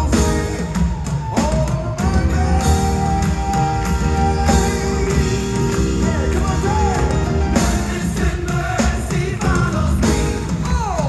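Live gospel music: a full band with drums and bass playing loudly under sung lines, held notes bending in pitch.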